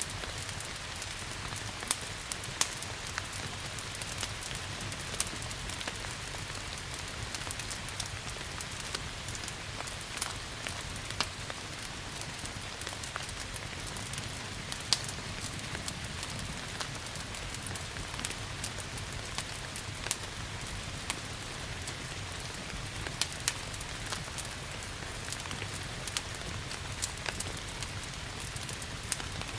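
Steady rain hiss mixed with a wood fire crackling, sharp pops scattered all through, a few of them much louder than the rest.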